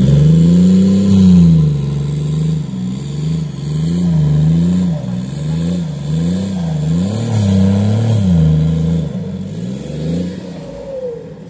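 Off-road 4x4 engine revving up and down over and over, roughly once a second, straining to pull the vehicle out of a deep mud hole, with a thin high whine rising and falling with the revs. The revving dies away near the end.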